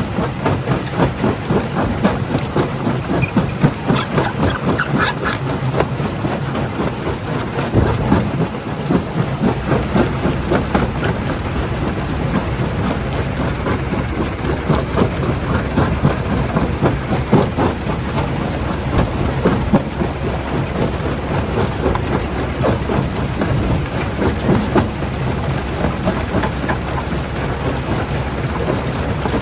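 Jaw crusher working at a quarry: a steady engine and motor hum under a dense, uneven clatter and knocking of rock being broken.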